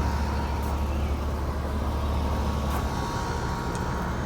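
Outdoor air-conditioning condenser units running in cooling mode: a steady low hum from compressor and fan, with a faint steady whine above it. The hum eases slightly about three seconds in.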